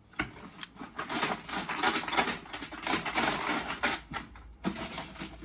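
Crackly rustling with many small clicks: a hand stirring through and picking out numbered draw tickets.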